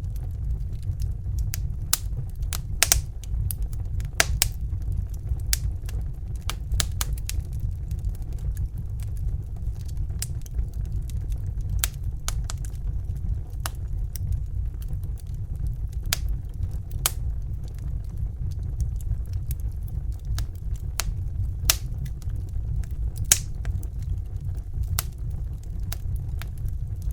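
Fire crackling, with irregular sharp snaps and pops over a steady low rumble.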